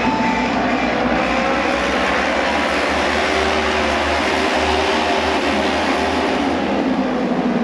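Auto race motorcycles' engines running loud and steady as the bikes lap the track, with engine notes slowly wavering in pitch.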